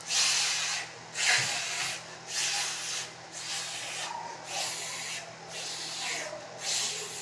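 A voice making the /f/ phonics sound, a breathy "fff" repeated about seven times, roughly once a second.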